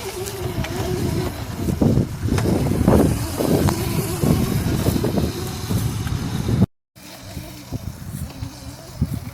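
Razor MX350 electric dirt bike running, its motor giving a steady whine at first, then irregular loud rumbling noise. The sound cuts out completely for a moment just before seven seconds in, then carries on more quietly.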